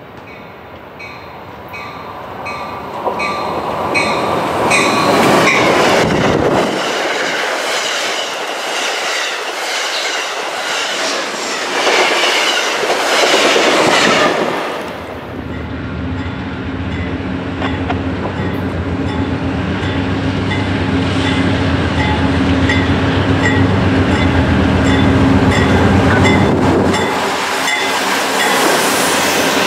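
A passenger train approaching and passing close, its bell ringing in steady pulses over the noise of its wheels on the rails. Then a freight train's diesel locomotives pass close, their engines working with a steady low drone.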